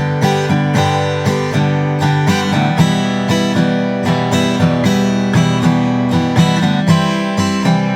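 Acoustic guitar strummed in an even down-and-up accompaniment pattern, moving through the chords G major, E minor, C major and D major.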